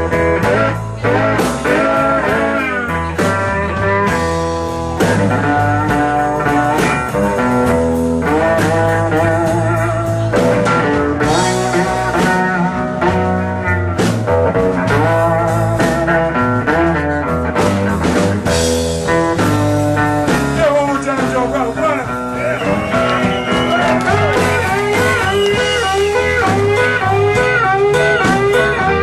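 Live Chicago blues band playing an instrumental break: a lead guitar solo with bending notes over bass and drums. The lead climbs higher and gets busier about two thirds of the way through.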